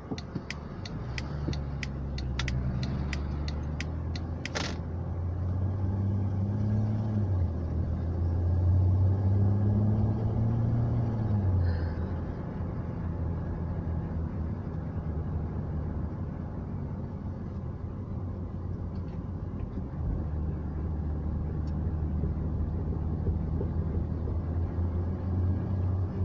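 Car engine heard from inside the cabin as the car drives off and speeds up: the low hum climbs in pitch, falls back about halfway through as the automatic gearbox shifts up, then holds and climbs again near the end. A quick run of sharp clicks sounds in the first few seconds.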